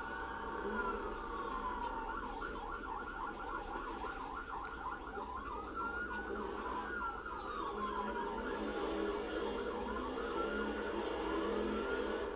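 Police car siren on a pursuing cruiser, wailing in slow rises and falls, switching to a rapid yelp about two seconds in and back to the slow wail about five and a half seconds in, over steady road noise.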